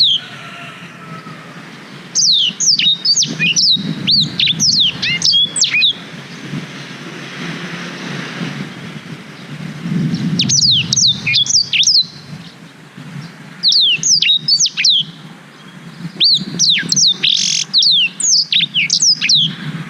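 Blackthroat (black-throated canary) singing: phrases of rapid, sharply falling high whistled notes, four or five phrases with short pauses between them, over a steady low background hum.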